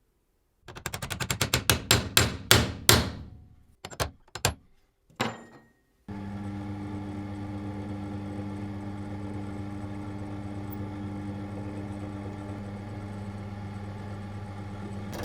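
A quick run of hammer blows on metal, some with a short ring after them, then three separate knocks. From about six seconds in, a steady electric motor hum takes over.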